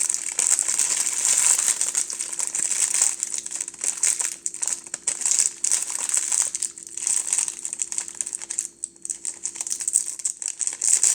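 Plastic packaging crinkling and crackling unevenly as it is pulled and worked at to get it open, with a faint steady hum underneath.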